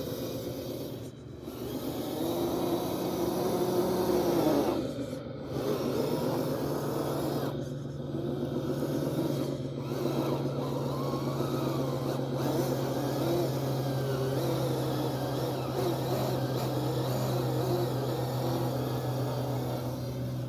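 Engine of heavy machinery running, its pitch rising and then falling back over the first few seconds before it settles into a steady drone.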